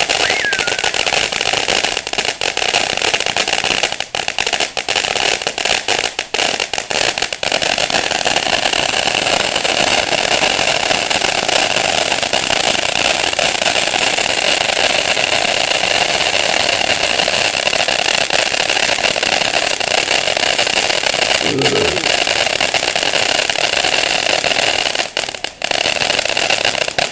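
Consumer firework cake ("The Naughty or Nice" box) going off: a loud, unbroken crackling and fizzing of many small bursts packed close together, which thins out and stops near the end.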